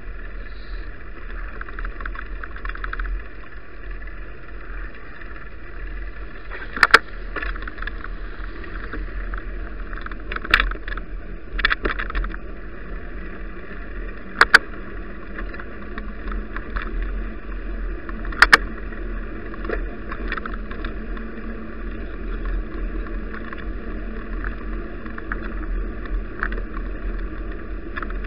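Steady road and wind noise picked up by an action camera riding on a moving bicycle, with a low rumble. Several sharp knocks, some doubled, come at irregular intervals.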